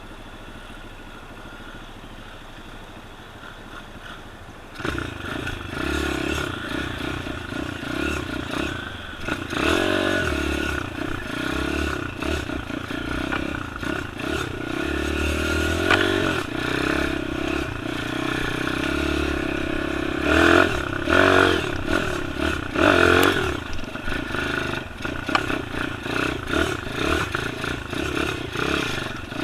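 Small-displacement pit bike engine being ridden off-road, revving up and falling back again and again, with knocks and rattles from the bike over rough ground. It is quieter at first and gets much louder about five seconds in.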